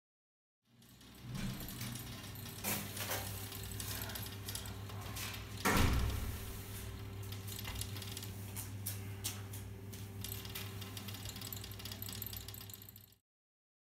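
Heating circulation pump (Grundfos 25-40) running with a steady hum while the spring-loaded Stout check valve in the line knocks and clicks irregularly, with one loud knock about six seconds in. The chatter comes from the valve's spring, which the installer removes to stop it.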